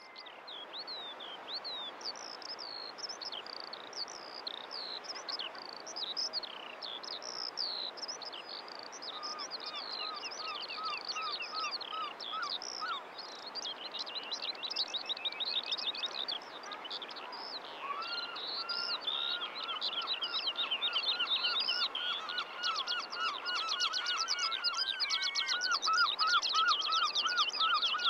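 A chorus of small birds singing: many quick chirps, whistles and fast trills, with a lower run of rapidly repeated notes joining about nine seconds in; the birdsong grows louder towards the end, over a light steady hiss.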